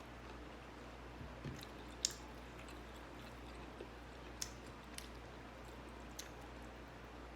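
A person chewing food quietly, with a few sharp mouth clicks and smacks scattered through it, the loudest about two seconds in.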